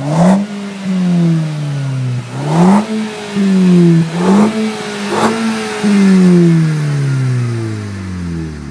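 Audi TT TFSI's turbocharged four-cylinder petrol engine revved through its exhaust in four quick throttle blips, each rising sharply and falling back slowly, the last settling toward idle near the end.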